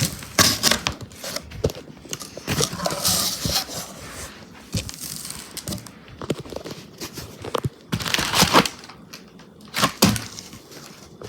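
Packaging being torn and crumpled by hand, in irregular crinkling rustles with sharp crackles and a few louder tearing bursts.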